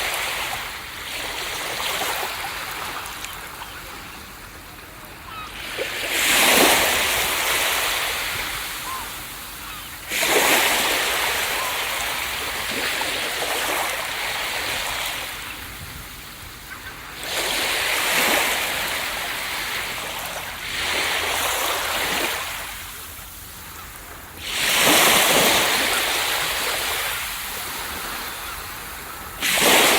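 Sea waves breaking on a beach one after another, each a sudden rush of surf every few seconds that washes up and fades away before the next.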